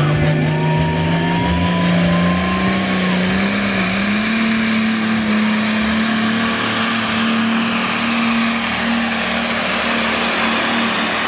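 A pulling truck or tractor engine running hard under load, its pitch climbing over the first few seconds and then holding steady. A high whine rises a few seconds in and stays above it.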